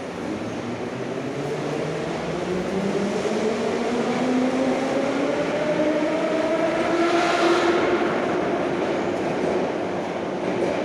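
Traction motors of a Nomernoy (81-717/714) metro train whining as it accelerates, several tones rising steadily in pitch for about eight seconds and then levelling off, over the rumble of the running gear.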